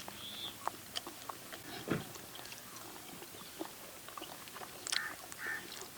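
Faint chewing and mouth clicks of people eating roasted mutton, in scattered small ticks with a soft thud about two seconds in.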